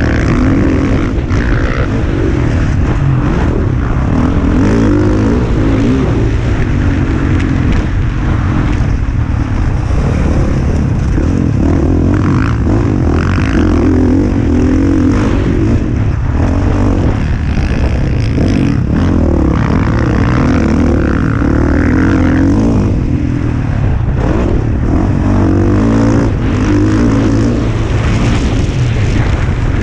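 Dirt bike engine revving hard, rising and falling repeatedly as the rider works the throttle and gears around a motocross track. It is heard on board the bike.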